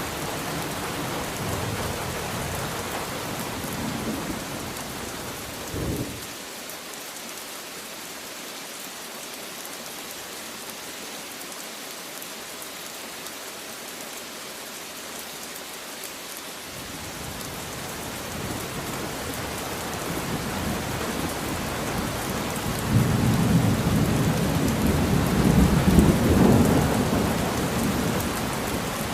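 Steady heavy rain with rolling thunder. The first rumble dies away about six seconds in with a brief sharp clap. After ten seconds of rain alone, a second long roll of thunder builds and is loudest near the end.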